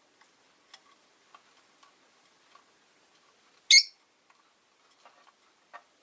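Rosy-faced lovebird giving one short, sharp chirp a little past halfway, amid scattered faint clicks and ticks.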